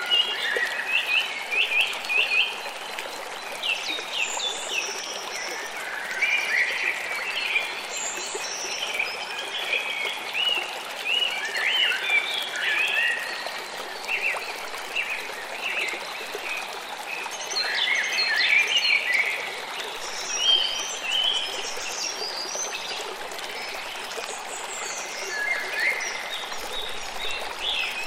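A river flowing steadily through forest, with many birds chirping and singing over the rushing water in clusters of quick calls every few seconds.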